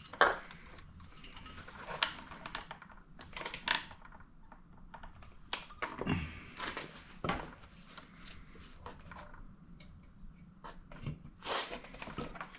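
Handling noises: scattered, irregular clicks, taps and small knocks of hands working on a small air compressor, which is not running.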